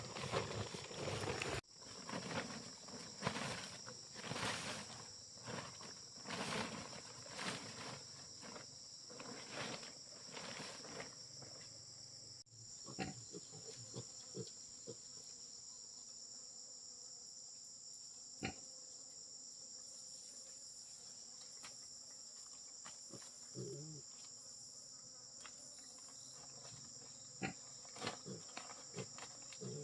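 Steady high-pitched chirring of insects. Over the first part there are repeated short rustles and knocks, and later only a few isolated clicks.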